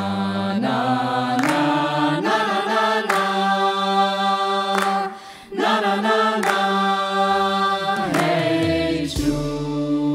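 A group of young voices singing together in chorus with instrumental backing, holding long notes that change every second or so, with a brief dip about five seconds in.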